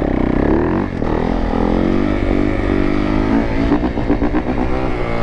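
Dirt bike engine revving under the rider: the pitch climbs, drops about a second in, then holds with small rises and falls, with other bikes running alongside.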